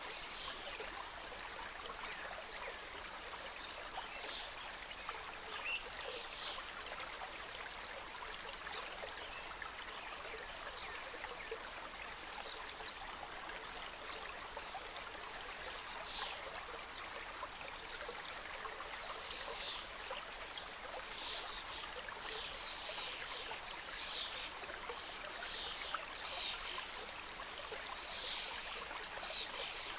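Small mountain stream cascading over rocks in a steady rush, with brief louder splashes that come more often in the second half.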